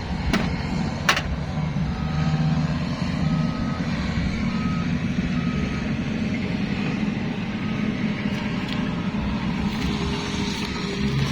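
A large vehicle's engine runs steadily. A reversing alarm beeps about four times, roughly once a second, starting about two seconds in. Two sharp clicks come near the start.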